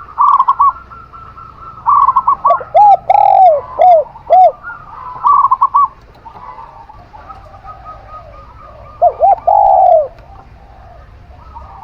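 A zebra dove and a spotted dove cooing: short arched coo notes repeated in quick runs at two different pitches, busy for the first six seconds and again for a moment about nine seconds in, then only faint calling.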